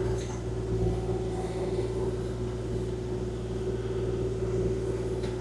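Kubota KX040-4 excavator's diesel engine running steadily, a constant low drone with a steady hum above it.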